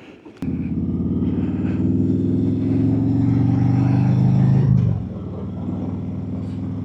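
Harley-Davidson Road Glide's V-twin engine starting up about half a second in, running at a fast idle, then settling to a lower, steady idle about five seconds in.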